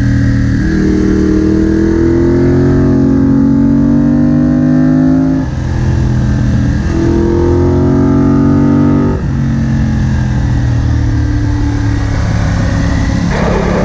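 Moto Guzzi Bellagio V-twin accelerating hard. The engine note climbs, drops sharply at an upshift about halfway through, climbs again, and after a second upshift a few seconds later settles to a steadier cruise.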